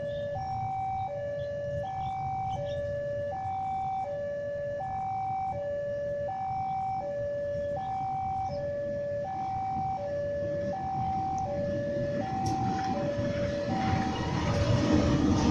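Electronic two-tone railway level-crossing alarm, alternating a low and a high tone about once a second, warning of an approaching train. Near the end a rising rumble of the oncoming train builds up over the alarm.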